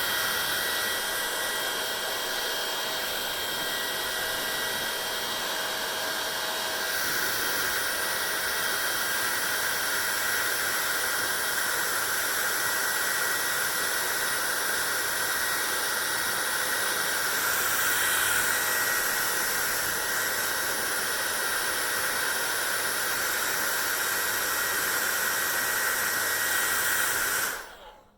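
Hair dryer running steadily, a constant rush of air with a steady whine. Its tone changes about seven seconds in, and it switches off shortly before the end.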